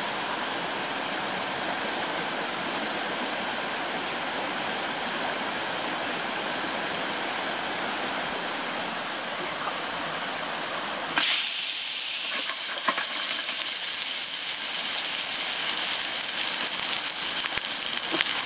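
Steady rush of a mountain stream for about eleven seconds. Then it cuts abruptly to a hamburger patty sizzling loudly in hot oil in a frying pan on a portable gas stove, a bright spattering hiss.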